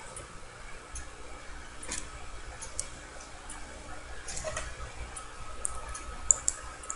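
A few faint, irregularly spaced clicks from a computer mouse and keyboard over low room hiss, the sharpest near the end.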